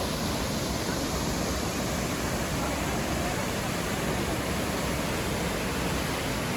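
Steady rush of the Triberg waterfalls: falling water in a constant, even roar.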